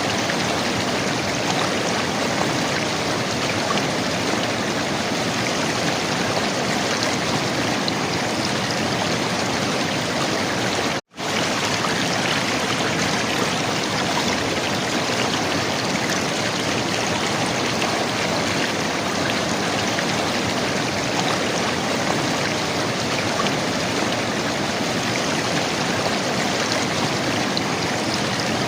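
River water flowing and gurgling in a steady rush. The sound cuts out for a split second about eleven seconds in, then resumes unchanged.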